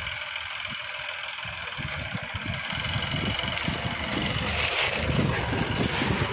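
Combine harvester running steadily during wheat harvesting, with wind buffeting the microphone. The machine noise grows louder about four seconds in.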